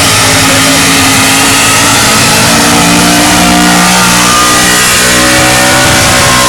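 Modified Chevy pulling truck's engine running hard at high revs, its pitch shifting a few times as it drags the weight sled down the track; a shrill, screeching engine note rather than a deep rumble.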